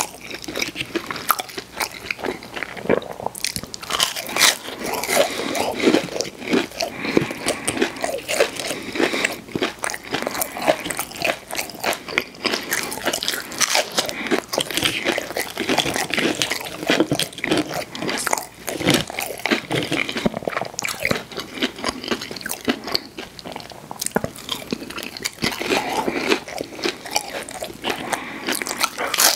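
Close-miked eating sounds: a person biting into, crunching and chewing fried fast food, with many sharp, irregular crunches.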